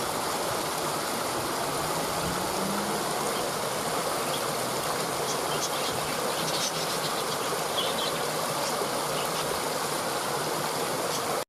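Steady rush of running stream water with a few short high bird chirps over it midway through; the sound cuts off suddenly at the end.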